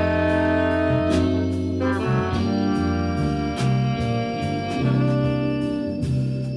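Live band music from a brass-and-saxophone ensemble: horns hold chords over a bass line that moves from note to note, with regular cymbal strokes.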